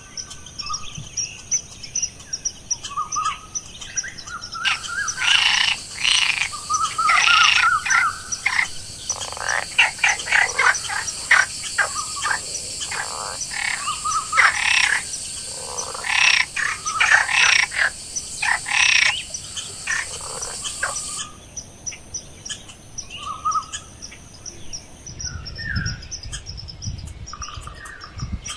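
Outdoor animal chorus: many short repeated calls, with frogs and birds the likely callers, over a steady high insect buzz that starts a few seconds in and cuts off suddenly about three quarters of the way through.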